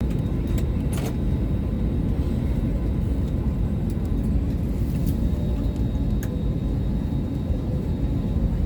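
Steady low rumble inside an Airbus A320 passenger cabin before takeoff, with a few faint clicks.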